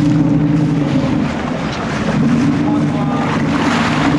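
A fishing boat's engine running with a steady hum, with wind buffeting the microphone and water washing past the hull.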